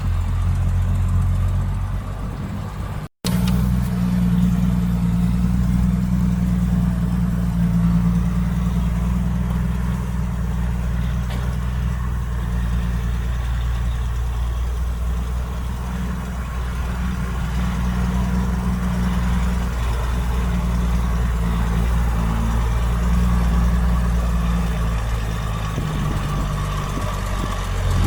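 Heavy earthmoving machine's diesel engine running steadily at a constant low rumble, with a momentary cut in the sound about three seconds in.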